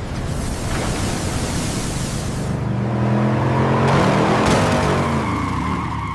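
Pickup truck engine revving under load, over a loud rushing noise. The engine note comes through clearly about halfway in and fades near the end.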